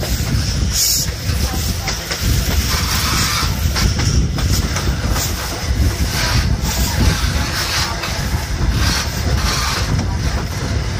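High Speed Train running at speed over a steel-girder railway bridge, heard from an open window: a steady heavy rumble of wheels on rails, with wind buffeting the microphone.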